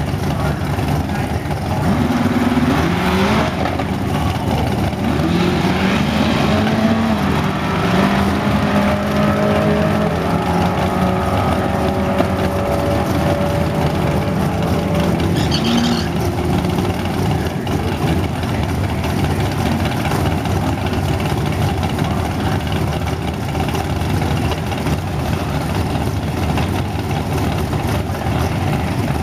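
Drag cars' engines running loudly, with revs rising and falling several times in the first ten seconds or so.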